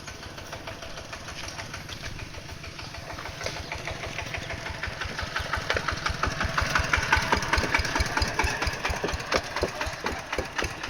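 An engine running with an even knocking beat, which gets faster and louder from about four seconds in.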